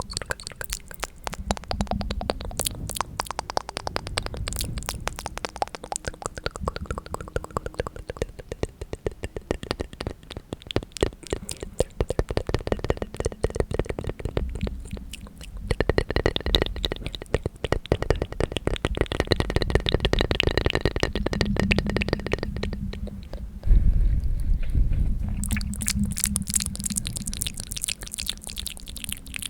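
Close-miked ASMR mouth sounds: a dense run of rapid wet clicks and smacks, louder for a stretch in the middle and loudest about 24 seconds in.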